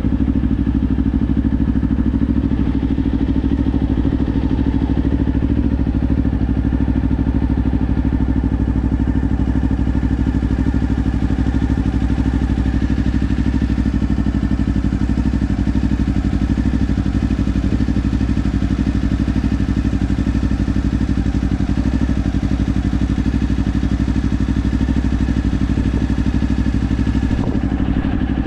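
Kawasaki Ninja 500's parallel-twin engine running through a Leo Vince aftermarket exhaust, holding a steady engine speed with no revving.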